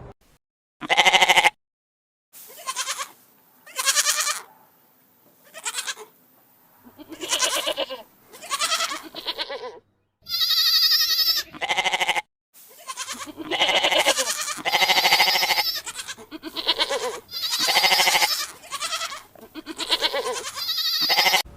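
A run of about fifteen separate pitched animal calls, bleat-like, following one another with short gaps and abrupt cuts between them. One call about ten seconds in is higher and thinner than the rest.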